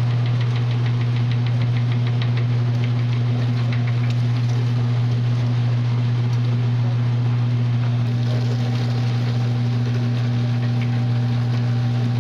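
Electric meat grinder running with a steady motor hum, with rapid light ticking through the first few seconds.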